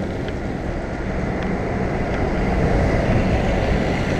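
Wind rushing over the microphone of a moving cyclist's camera, a steady low-heavy buffeting, mixed with the running of nearby street traffic.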